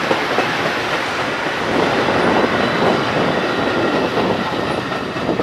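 A train passing close by at speed, a steady rush of wheels on the rails with some clickety-clack.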